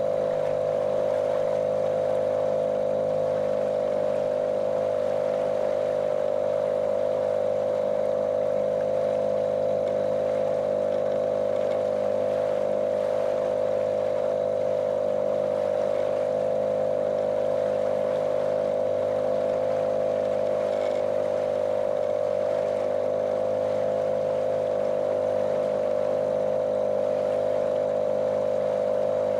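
Small motorboat's motor running at a constant speed, a monotonous drone with a strong steady hum that does not change.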